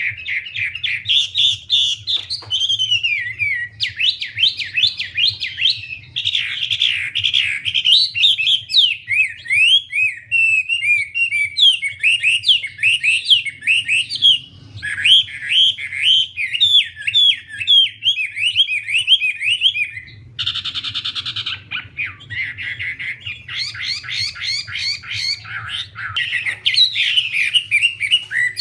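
Wambie songbird singing continuously and vigorously: a long run of rapid high chirps, trills and quick whistled notes, with a brief pause about twenty seconds in. A faint steady low hum sits underneath.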